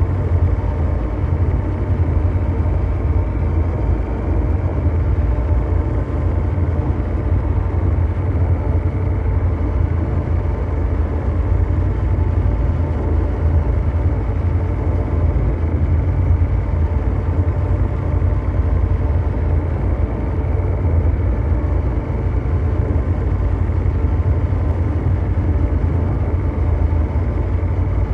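Continuous mechanical drone ambience: a steady deep rumble with fainter humming tones above it, unchanging throughout.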